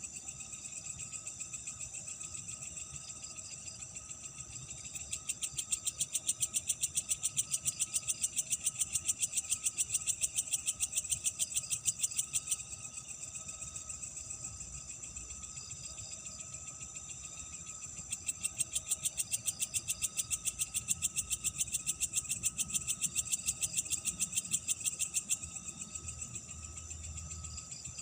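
A night chorus of crickets and other insects keeps up a steady high-pitched trilling. Twice, a louder, rapidly pulsing trill sets in and runs for about seven seconds before cutting off sharply.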